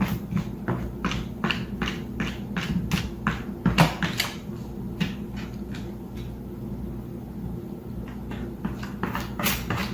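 Regular tapping, about three taps a second, fainter and sparser in the middle and picking up again near the end, over a steady low hum.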